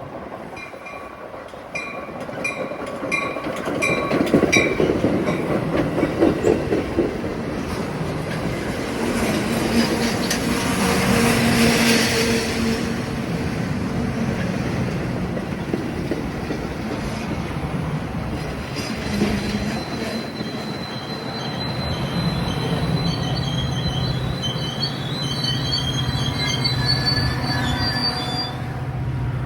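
A train rolling past on steel rails with a broad rushing noise that peaks about twelve seconds in. In the first few seconds a short ringing tone repeats about twice a second. Near the end the wheels squeal in thin high tones against the rails.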